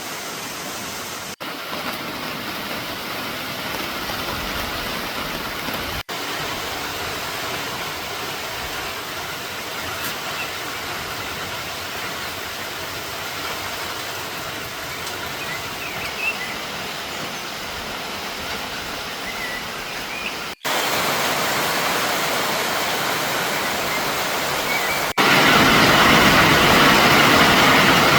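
Heavy rain pouring down, a steady hiss. It cuts off abruptly several times and gets louder after the last two breaks, loudest near the end.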